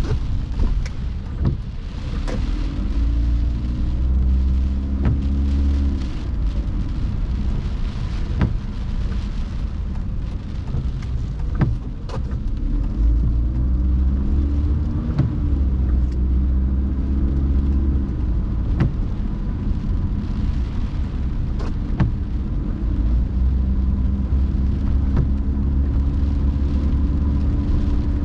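A car driving in the rain: steady engine and road drone whose pitch rises and falls a few times as the car speeds up and slows, with scattered raindrops ticking sharply on the car.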